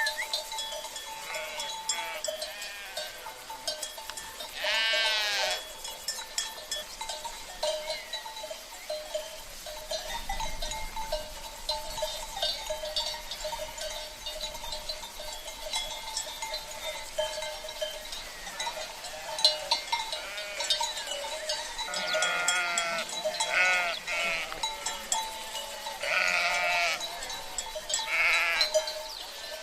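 A flock of sheep bleating, one call about five seconds in and several more close together near the end, over the steady ringing and clinking of the animals' bells.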